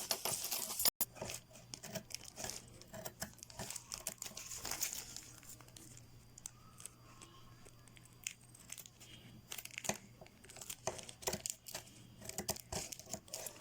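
Cellophane plastic crinkling and rustling in short, irregular crackles as it is handled and cut to size.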